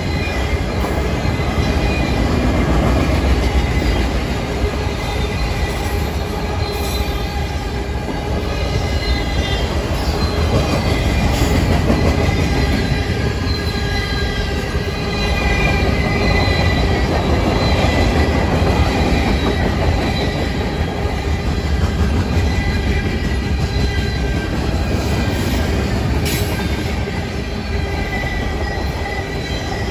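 CN freight train cars rolling past at close range: a steady, heavy rumble of steel wheels on rail, with high-pitched wheel squeal running through it. A few sharp clanks come from the passing cars, at about 7, 11 and 26 seconds in.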